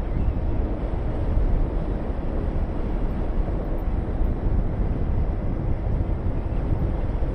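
Honda VTR250's V-twin engine running steadily on the move, mixed with wind rushing over the microphone as a deep, even rumble.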